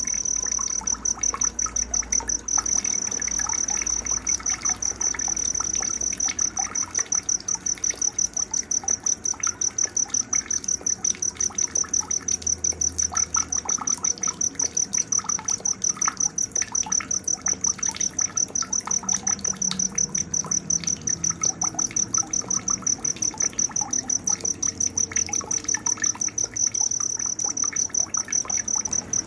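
Cricket chirping in a steady high pulse several times a second, with faint bird chirps underneath: a night-time nature soundscape.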